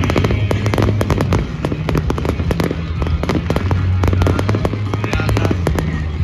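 A fireworks display: a rapid, dense series of bangs and crackles from bursting shells, with the bass of the show's music over loudspeakers running underneath.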